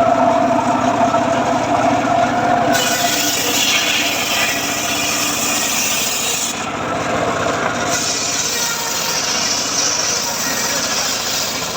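Homemade circular saw rig running, then its blade cutting through teak: a harsh, hissing cut starts about three seconds in and lasts about four seconds, breaks off briefly, and a second cut follows.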